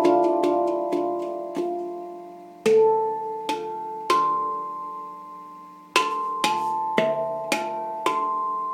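Yishama Mystic 9 steel handpan in D minor played by hand: single notes struck one after another, each ringing on and slowly fading, in short phrases with a longer ringing pause partway through. The instrument has just been reglued and retuned after heavy transport damage.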